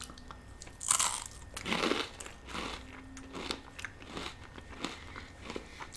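Close-miked eating: people biting and chewing, with irregular crisp crunches from fried pita chips, the loudest about one and two seconds in, amid softer wet chewing.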